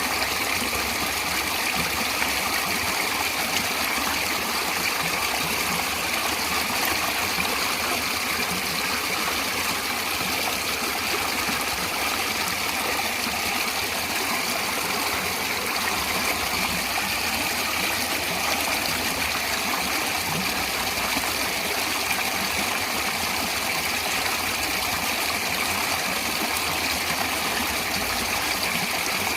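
Natural running water: a steady, even rushing that does not change.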